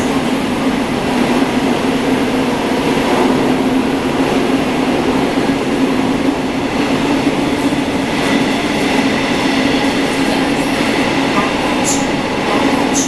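Gwangju Metro Line 1 subway train running steadily between stations: a continuous rumble of wheels on rail with a steady low hum, and a few faint high ticks.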